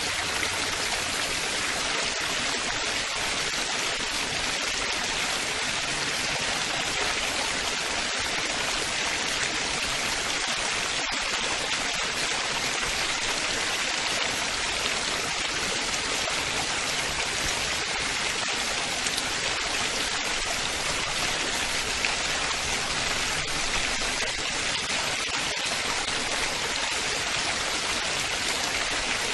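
Running water splashing and babbling steadily, an even rushing hiss with no break.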